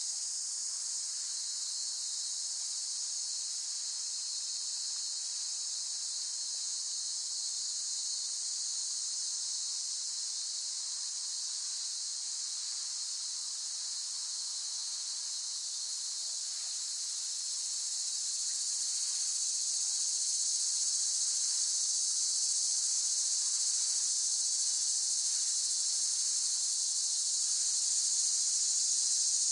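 Cicadas singing in a dense, steady, high-pitched chorus, growing a little louder about two-thirds of the way in.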